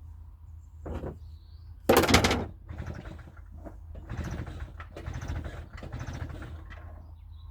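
A small petrol generator's recoil pull cord yanked hard about two seconds in, the engine turning over without catching, with a shorter pull just before it. Quieter rattling and scraping follow.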